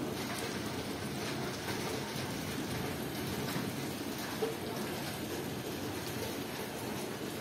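Steady rainfall: an even hiss scattered with many small ticks of individual drops.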